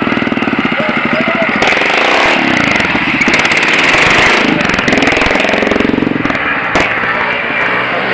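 Single-cylinder motorcycle engine running loud and revving, its pitch rising and falling as the throttle is worked.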